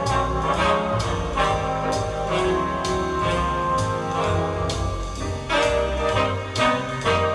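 Recorded music with brass and a steady beat, played back through a pair of small two-way bookshelf monitor loudspeakers and picked up by a microphone in the room.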